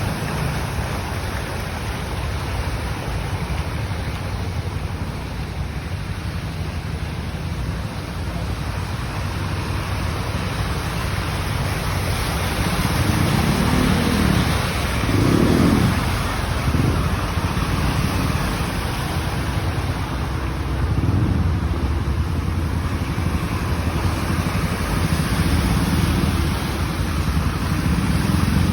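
Vehicles driving through a flooded street, with a steady wash of water and engine noise. The low rumble swells as one passes about halfway through, and again a little later.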